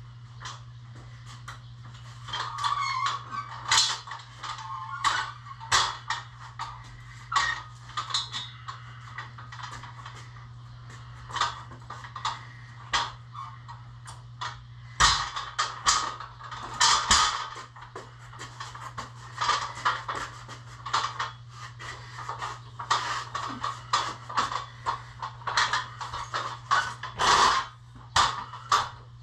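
Irregular knocks and clatters, coming in flurries of several a second, over a steady low hum.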